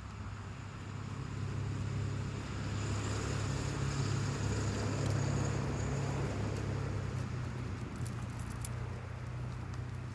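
A motor vehicle's engine hum, growing louder and then easing off, with a few faint clicks.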